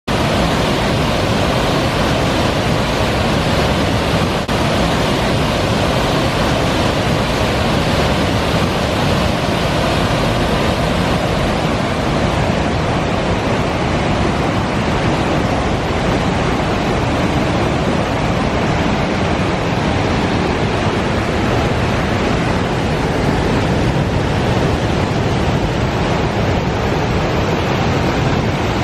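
Three-step waterfall roaring steadily: a loud, even rush of water pouring over stepped rock ledges.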